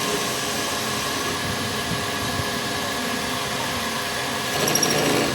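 Steady mechanical running noise: an even rushing hiss over a low hum, growing slightly louder for a moment near the end.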